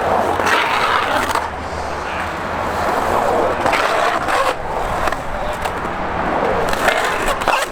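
Skateboard wheels rolling on concrete with a steady grinding rumble, broken by several sharp clacks of the board.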